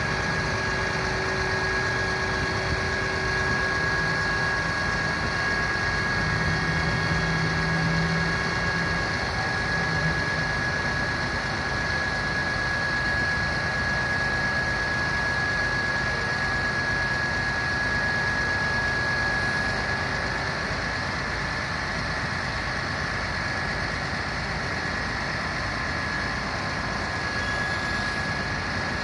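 Fire truck's diesel engine idling steadily, with a constant high-pitched whine running over it.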